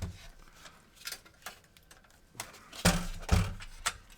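Light clicks and knocks of small parts being handled on the bench, a scatter of them with two louder knocks about three seconds in.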